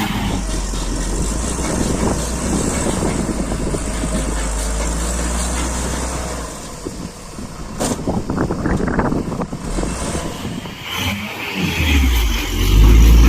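Heavy diesel engine running steadily, dipping about halfway through, then growing louder with a deep low rumble near the end as it is pushed harder.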